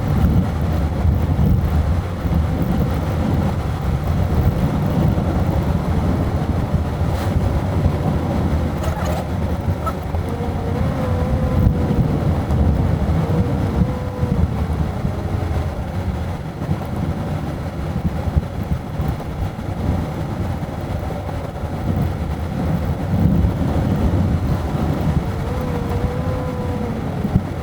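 Car driving, a steady low rumble of engine and road noise, with faint wavering whines over it.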